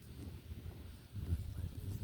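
Wind buffeting the microphone: a low, uneven rumble that swells and drops, loudest a little past the middle.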